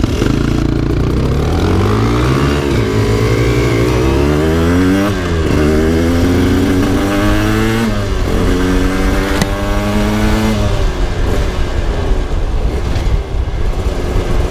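Aprilia RS 125 motorcycle engine pulling away and accelerating up through the gears: the revs climb and drop back at each shift about three times, then settle into a steady cruise with wind noise from about ten seconds in. A single sharp click about nine and a half seconds in.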